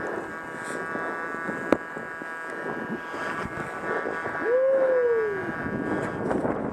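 Skis running through deep powder snow with a steady rushing hiss of snow and wind, over a thin steady whine. About four and a half seconds in, a person gives one long hoot that rises and then falls.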